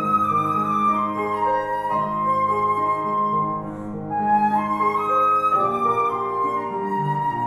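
Transverse flute and piano playing classical music: the flute sings a slow melody of long held notes over sustained piano chords.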